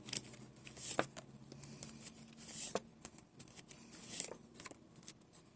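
Tarot cards being shuffled and drawn by hand: a series of faint rustles and light taps as the cards are handled and laid down.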